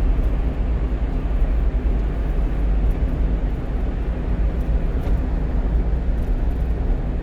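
Steady engine and road rumble from a 1-ton truck cruising on a highway, heard from inside the cab.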